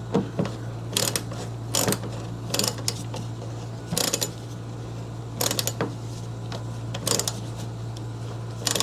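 Ratcheting torque wrench tightening the band clamps of a drain-pipe coupling: short runs of sharp ratchet clicks, roughly one burst a second, over a steady low hum.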